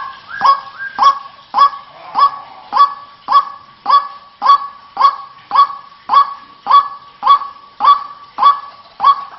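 White-breasted waterhen calling: a steady, evenly spaced series of short, loud notes, just under two a second.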